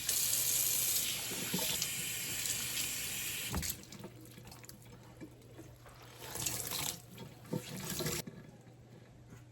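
Kitchen tap running, turned on for about three and a half seconds, then off with a knock, then on again for about two seconds.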